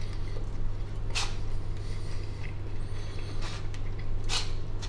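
A man chewing a mouthful of pan-fried dumpling: three brief, soft mouth noises over a steady low hum.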